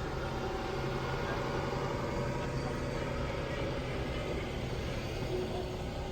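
A vehicle engine running steadily, a low even drone with traffic-like noise over it.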